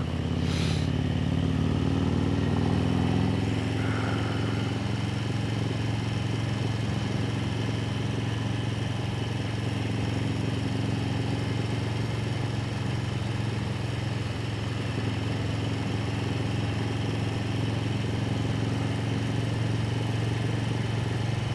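Motorcycle engine running steadily at cruising speed, with wind and road noise. The engine note eases down slightly over the first few seconds, then holds.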